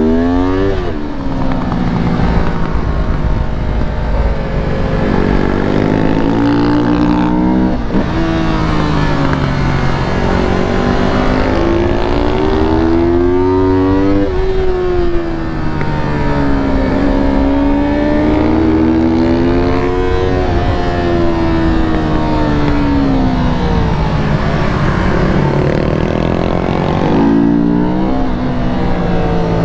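Yamaha R3 sport motorcycle's parallel-twin engine being ridden hard on a track, its pitch rising and falling again and again as it accelerates and slows through the corners.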